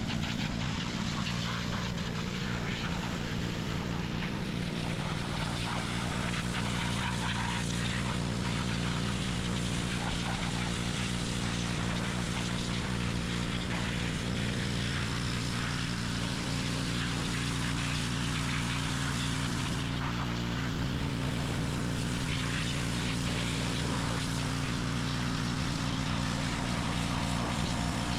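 Pressure washer running steadily, a constant engine-like hum under the hiss of the spray jet, washing degreaser off a car engine.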